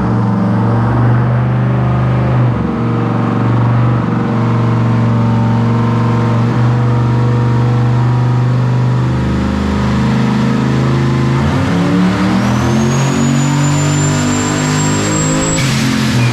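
Twin-turbo LS V8 running steadily, then revving up through a dyno pull about three-quarters of the way in, with a high turbo whistle climbing steeply alongside it. A short rush of noise comes just before the end.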